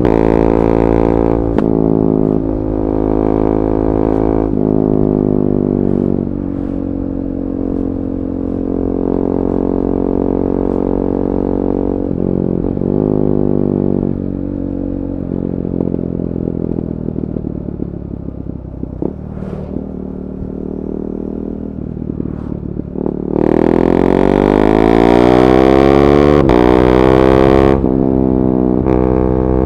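KTM 390 Duke's single-cylinder engine through an Akrapovic slip-on and decat pipe, ridden on the road: the exhaust note steps up and down in pitch as the throttle and gears change. About two-thirds of the way in it gets louder under hard acceleration with a rising pitch, then drops off sharply near the end.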